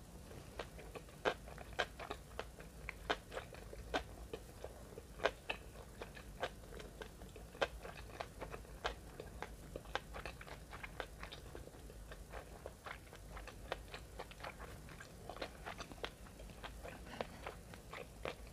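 Close-miked chewing of a nori-wrapped sushi piece: irregular sharp clicks and crunches, a few a second, over a faint steady low hum.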